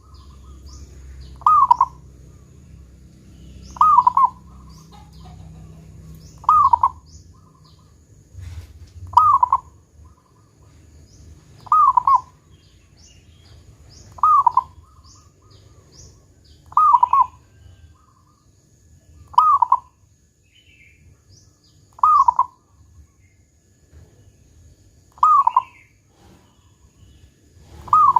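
Zebra dove (perkutut) cooing its song, a short phrase ending in the deep 'kung' note, repeated about every two and a half seconds. Faint high chirps of small birds sound behind it.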